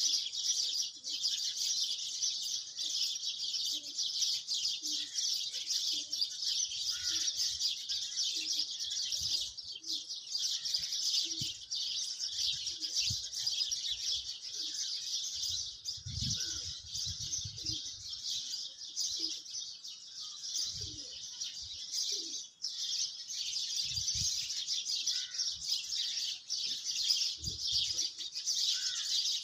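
Birds chirping in a dense, steady chorus, briefly thinning twice.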